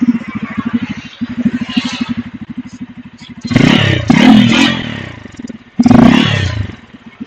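Bajaj Pulsar N250's single-cylinder engine idling with an even exhaust beat, then revved twice through the stock exhaust, the first blip longer, before dropping back to idle.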